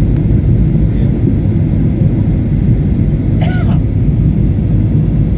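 Airliner noise from jet engines and rushing air, heard as a loud, steady low rumble. A brief voice-like sound comes about three and a half seconds in.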